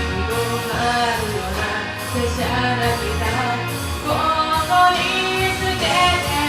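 Pop song: a solo vocal sung over a backing track with a steady bass line.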